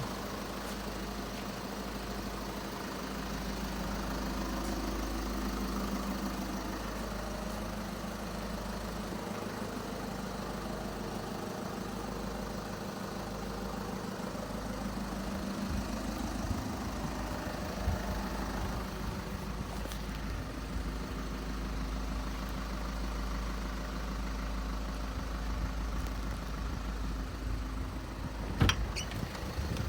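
Volkswagen Eos 2.0 TDI's four-cylinder common-rail diesel engine idling steadily, with a single sharp knock near the end.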